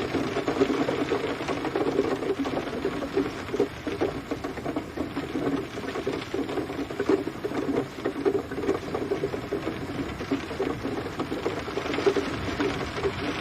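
Rain pattering steadily, a dense stream of irregular drops striking a surface.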